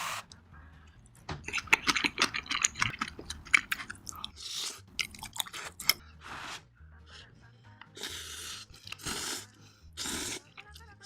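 Close-miked crunchy chewing of food: a dense run of crackling bites and chews early on, then slower, separate chewing sounds. Quiet background music plays underneath.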